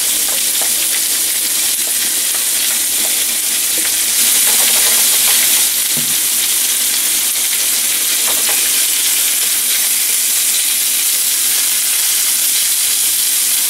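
Marinated anchovies (nethili), shallots and curry leaves sizzling in a little oil in a nonstick frying pan, a steady hiss with a few small clicks as the fish are laid in and spread out. The sizzle grows a little louder for a couple of seconds about four seconds in.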